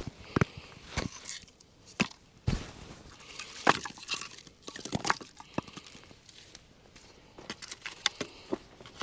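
Irregular knocks, clicks and rustling from camping gear being handled, with sharp taps at no steady rhythm throughout.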